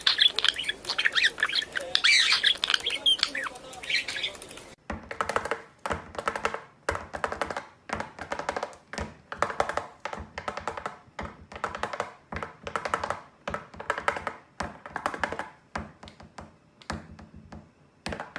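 Cockatiel squawking and chirping in quick, high calls. About five seconds in the sound changes abruptly to a run of repeated pitched chattering phrases with short gaps between them.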